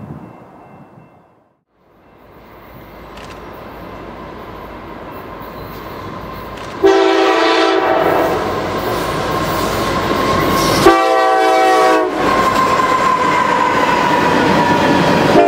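Freight train approaching and passing at speed, its diesel locomotives growing steadily louder. The locomotive horn sounds two chords of about a second each, around 7 s and 11 s in, and starts a third at the very end. Between and after them the cars roll by with wheels clicking over the rail joints.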